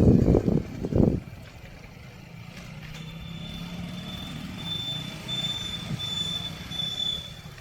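A motor vehicle's engine running, loud and rumbling for about the first second, then a steadier low hum. A thin, high, steady tone joins about three seconds in.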